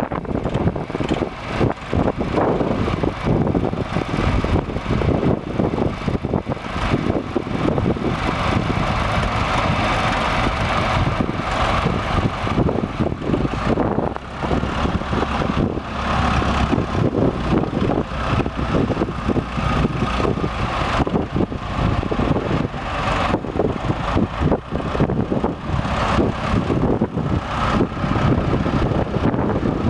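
Case IH 885 tractor's diesel engine running steadily, with wind buffeting the microphone.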